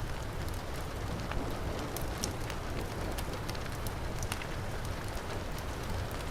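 Heavy rain falling steadily, mixed with a crackling wood fire, with many short sharp pops over a low rumbling wash.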